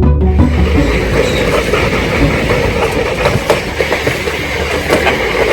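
Wicker basket toboggan sliding down a steep street on its wooden runners: a steady, loud, rough rattling scrape with a few faint clicks.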